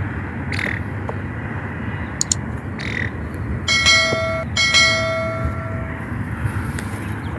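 A metal bell rings twice, about a second apart, its clear tones fading away over a second or so. Short calls from a bird come just before, over steady background noise.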